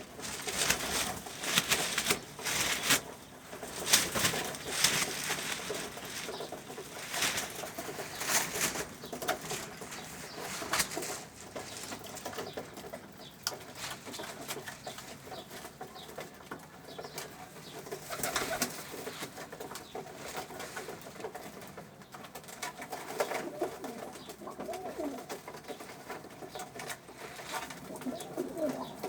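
Pigeons cooing in a loft, with the low wavering coos running on throughout. Scattered sharp clicks and knocks from the birds moving about come thickly in the first several seconds and again midway.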